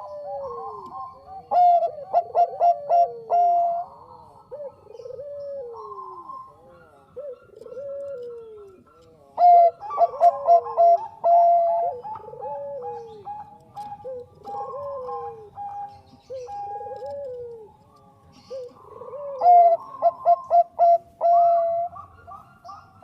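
Zebra dove (perkutut) of the Thai 'bangkok' song line cooing. Three loud song phrases, each a quick run of notes ending in a held note, come with softer falling coos repeated between them.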